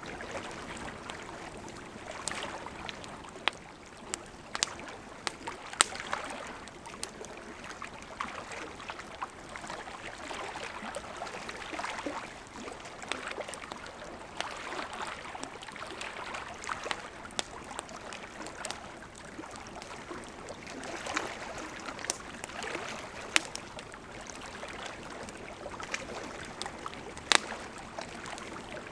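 Wood campfire burning: a steady hiss of flames with irregular crackles and a few louder sharp pops.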